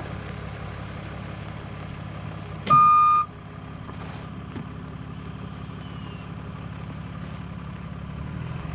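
A vehicle engine idling steadily. About three seconds in there is a single loud, high beep lasting about half a second.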